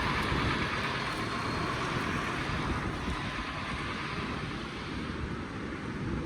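Street traffic noise: a passing vehicle's tyre and road rush, loudest at first and slowly fading away.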